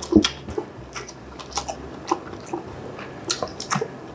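Close-miked chewing and crunching of bean sprouts and glass noodles with fish cake, a run of short, irregular crisp crunches and wet mouth sounds.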